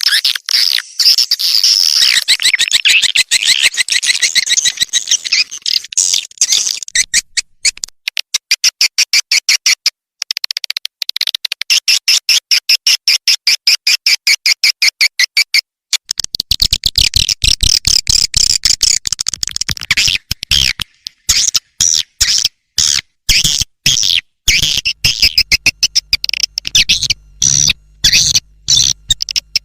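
Swiftlet lure call: recorded swiftlet twittering in fast runs of high clicking chirps, many a second, broken by short gaps. It is the 'outside' calling sound that is played from swiftlet houses to draw the birds in.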